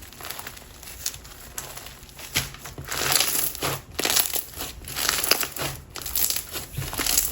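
Clear glue slime packed with lava rocks and silica beads being squished and kneaded by hand, giving crunchy crackles and pops, faint at first and then dense and louder from about three seconds in.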